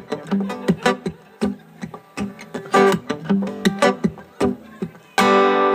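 Acoustic guitar strummed in a steady, percussive rhythm as a song's intro, with a louder held chord near the end.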